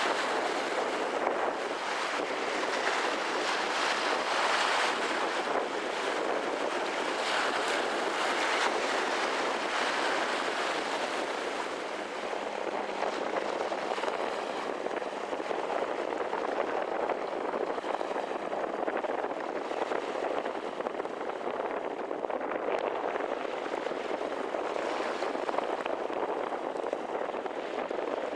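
Steady rushing noise of wind and water, swelling and easing slightly, with no distinct engine tone or other events.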